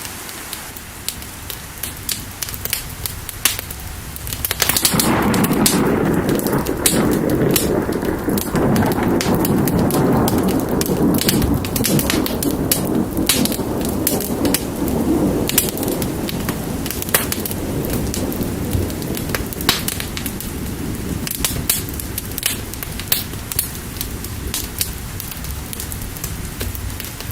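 Wood fire crackling with rain falling, and a long roll of thunder that comes in about five seconds in and slowly dies away.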